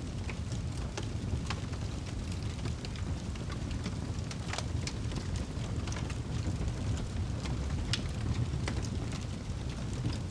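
Wood fire burning in a fireplace: a steady low rumble of flames with scattered sharp crackles and pops, two louder pops about four and a half and eight seconds in.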